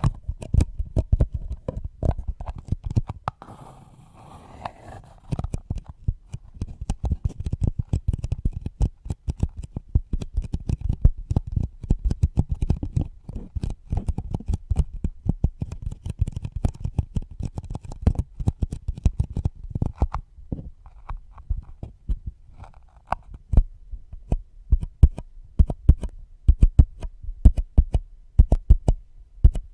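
Rapid, irregular tapping and thumping close to a microphone, soft strikes with a deep low end, easing off into a brief rustle about four seconds in.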